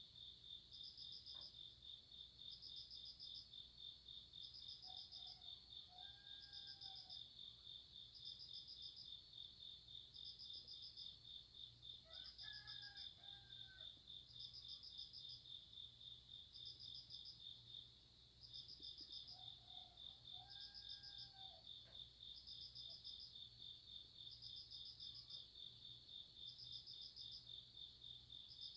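Crickets trilling steadily in a high, pulsing chorus, with another insect chirping in short bursts about every second and a half. A rooster crows faintly three times through it.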